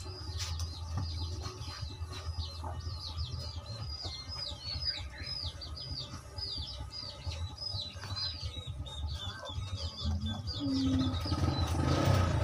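Small birds chirping quickly and repeatedly, the chirps thinning out after about eight seconds, over a low steady rumble. A louder noise swells near the end.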